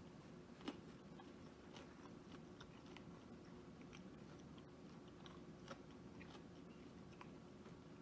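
Faint chewing and small mouth clicks of a person eating fried takeout food, with one sharper click about a second in, over a faint steady hum.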